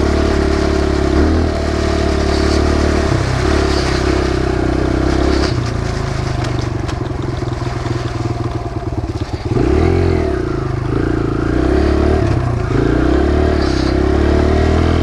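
Kawasaki KLX140 dirt bike's single-cylinder four-stroke engine running under way, its revs stepping up and down several times with throttle and gear changes. About ten seconds in the revs drop and climb back up.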